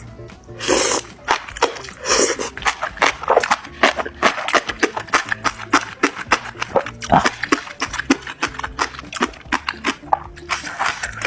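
Someone eating mixed seafood up close: a dense, irregular run of wet smacks, clicks and crunches of chewing, over soft background music.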